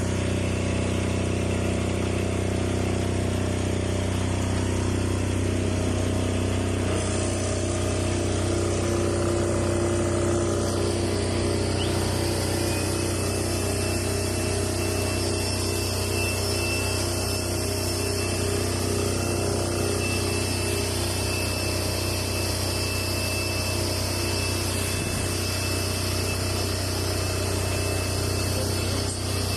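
Fujimoto 10 kVA air-cooled diesel generator running steadily. About seven seconds in its sound shifts to a pulsing beat, and a thin high whine joins about twelve seconds in.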